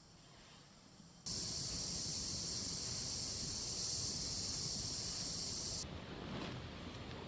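A loud, steady, high-pitched hiss cuts in suddenly about a second in and stops just as suddenly near the end, followed by light rustling and scraping.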